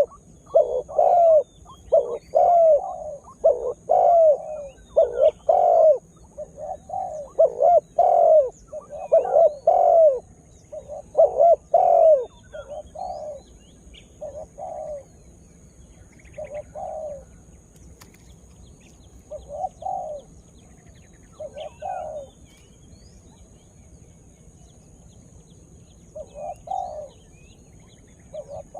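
Spotted dove cooing in quick repeated phrases, then slowing to single coos spaced a couple of seconds apart about halfway through. Faint chirps from small birds sound in the background.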